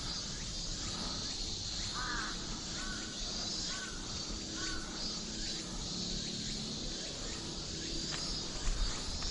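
A crow cawing four times in quick succession, short arched calls, over a steady high-pitched insect drone.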